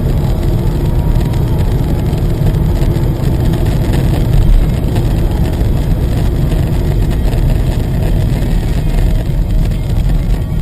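Steady car engine and road noise from a moving car, dominated by a low rumble, with no impact or crash.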